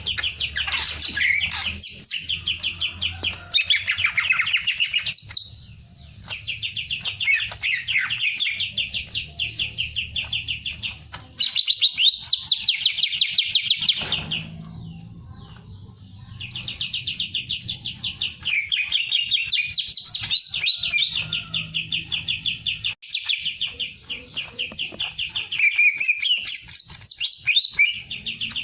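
A songbird singing continuously in long phrases of very rapid trilled notes, each phrase running several seconds with brief pauses between, mixed with sharper higher chirps.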